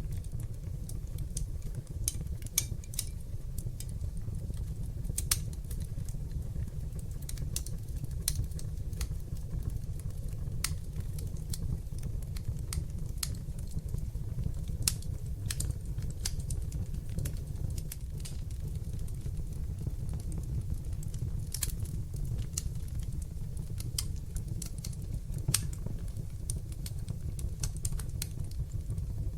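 Fire burning in a fireplace: a steady low rumble of flames with sharp crackles and pops at irregular intervals.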